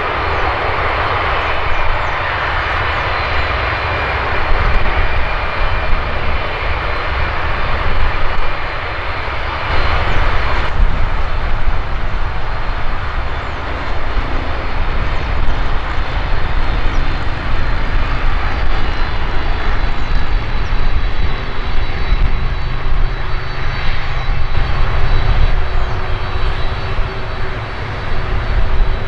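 Jet airliner engines running loud and steady as an aircraft moves past, a dense rushing roar over a deep rumble. The sound changes abruptly about ten seconds in, losing much of its hiss.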